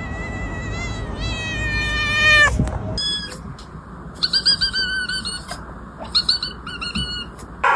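A cat calling: a long, high-pitched, drawn-out meow, then quick runs of short chirping calls.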